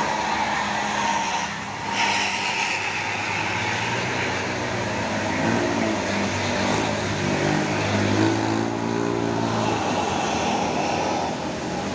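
Heavy diesel truck engine pulling up a steep climb, its note shifting in pitch between about four and ten seconds in, over a steady hiss of heavy rain and road noise.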